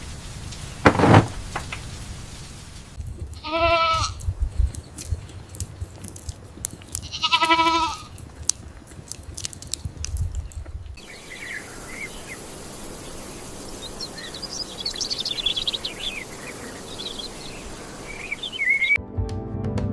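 A thump about a second in, then two wavering, bleat-like farm-animal calls a few seconds apart. Then birds chirping over a steady high hiss, and music starting just before the end.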